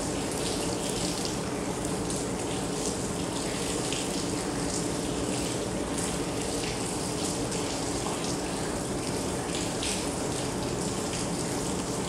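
Steady rain falling, with close drops splattering irregularly.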